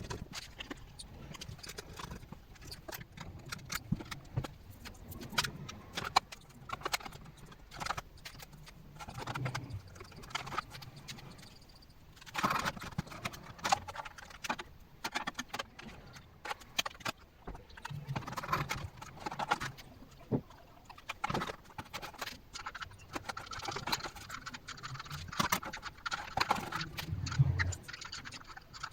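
Computer parts being handled: irregular clicks, taps and scrapes of metal and plastic.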